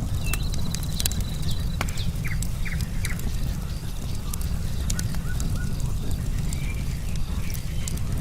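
Wood campfire crackling, with many sharp pops over a steady low rumble of the flames. A high pulsed insect trill sounds in the first second and a half, and a few short chirping calls come a little over two seconds in.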